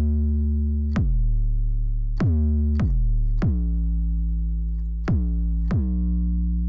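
Synthesizer bass notes in a low register, each starting with a sharp attack and held until the next, struck at uneven intervals as a bass line.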